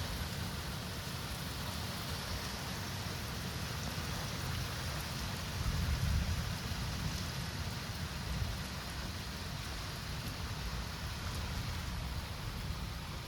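Steady heavy rain falling, with a low rumble of distant thunder swelling briefly around the middle.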